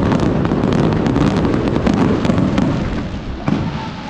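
Aerial fireworks display: a rapid volley of shell bursts and launches with a dense crackle of popping stars overhead, easing slightly near the end.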